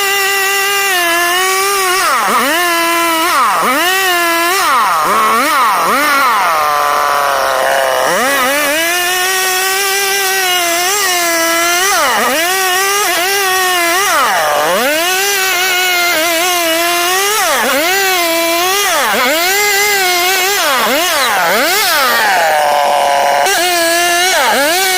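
STIHL chainsaw running at high speed, its pitch dipping sharply and recovering again and again, as the engine bogs under load in the cut and picks up.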